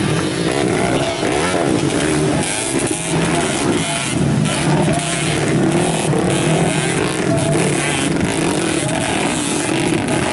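Modified underbone motorcycle engines revving, several overlapping, their pitch rising and falling.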